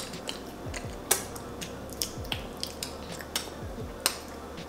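Close-miked eating sounds of children chewing pizza: wet lip smacks and mouth clicks at an irregular pace, with louder smacks about a second in and again just after four seconds.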